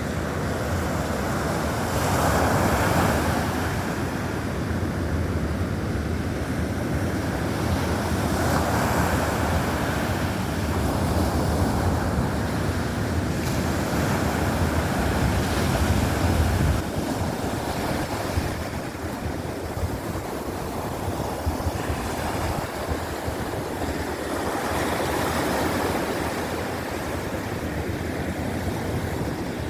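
Baltic Sea surf washing onto the beach in slow surges, with wind rumbling on the microphone. The wind rumble eases a little about two-thirds of the way through.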